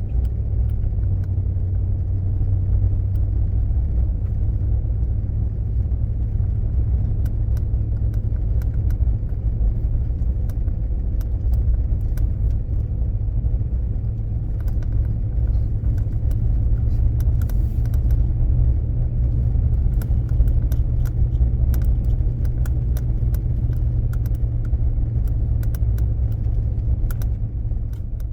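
Steady low rumble of a truck driving, heard from inside the cab, with light rattles and ticks scattered throughout.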